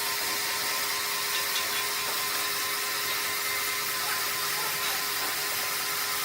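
Sawmill machinery running steadily: a constant whir and hiss with a steady hum underneath, with no distinct cuts or impacts.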